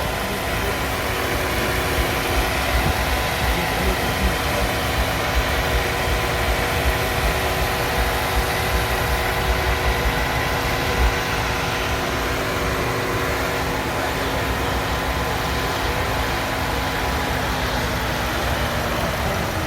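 A car engine idling steadily, holding an even hum that sags slightly in pitch near the end.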